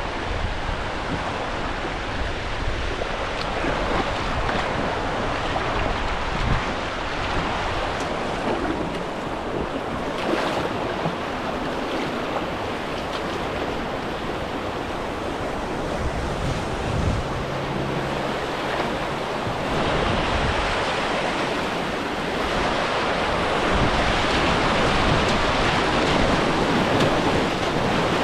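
Rushing river water, with wind buffeting the microphone; the rush grows louder in the last few seconds.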